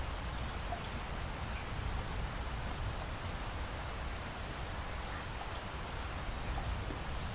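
Steady rainfall: an even hiss of rain with a low rumble beneath and a few separate drops heard now and then.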